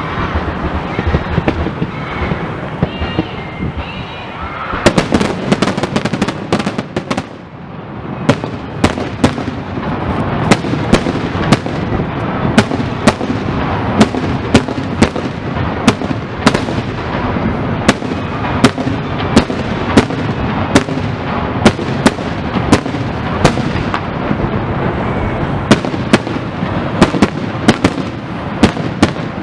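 Fireworks going off: after about five seconds of a dense crackling wash, sharp bangs begin and come one or two a second over continuous crackle.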